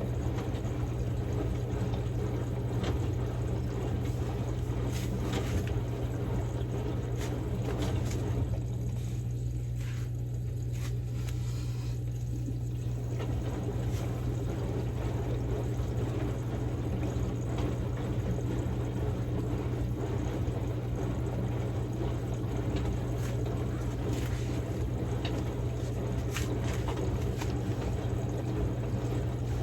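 Samsung Grande front-load washing machine running a quick wash with a padded jacket inside: water sloshing in the turning drum over a steady low hum, with a few light clicks. The sloshing quietens for a few seconds about nine seconds in, then resumes.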